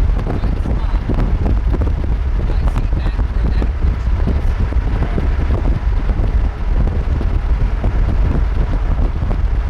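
Wind buffeting the microphone: a loud, steady low rumble with irregular gusty flutter.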